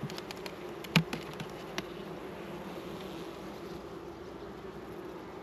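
Honey bees buzzing in an open hive, a steady hum. A few sharp knocks or clicks come in the first two seconds, the loudest about a second in.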